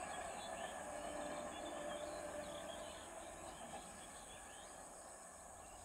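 A passenger train receding down the line, its faint rumble slowly dying away, while small birds chirp and insects hiss steadily.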